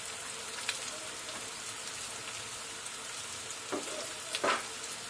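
Breadcrumb-coated kebab pieces frying in hot oil: a steady crackling sizzle, with two short louder crackles near the end.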